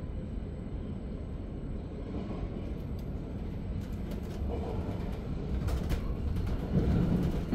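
Inside a Zürich S-Bahn double-deck (DPZ) passenger coach under way: a steady low rumble of wheels on rails that grows louder about five seconds in, with a few clicks.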